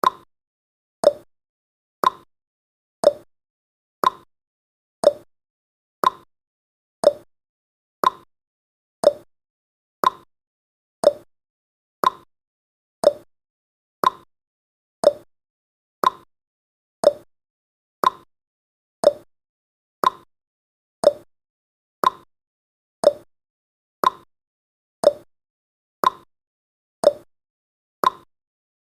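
Countdown timer's tick sound effect: one short, sharp tick every second, perfectly regular.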